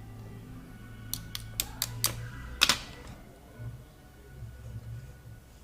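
A quick series of sharp clicks and taps, about six in a second and a half, the loudest about two and a half seconds in, as small hard parts are handled and fitted together, over a steady low hum of background music.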